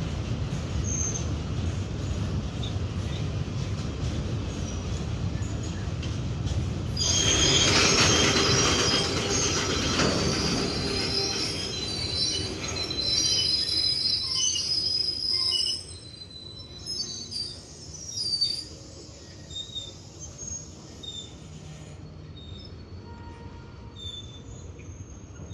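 Indian Railways goods train of covered wagons running past: a steady low rumble of wheels on rail. About seven seconds in, a loud high-pitched wheel squeal sets in and carries on for several seconds. Near the middle the sound drops off sharply, leaving quieter running with brief squeals.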